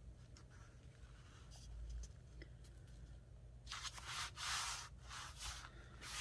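Paper being rubbed and smoothed down by hand onto a journal page, a few rough swishing strokes in the second half.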